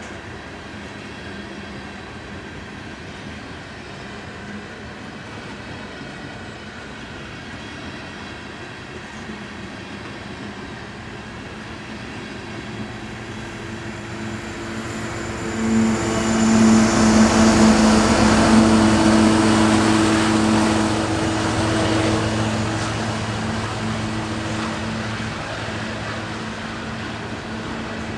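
A train rolling past with a steady rumble. About halfway through, something much louder comes by close, with a low steady drone, then slowly fades.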